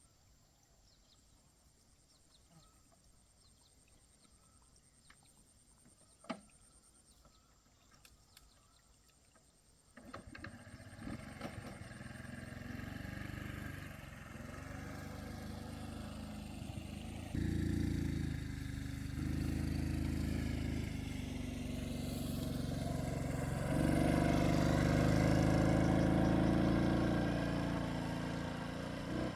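Quiet at first with a single sharp click. About ten seconds in, a small engine starts running. Its pitch steps up a little past halfway, and it grows loudest near the end as it works harder.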